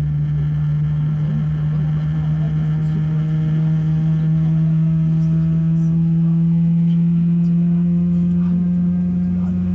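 Boeing 777-300ER jet engine heard from inside the cabin, a steady droning hum that slowly rises in pitch as the engine spools up.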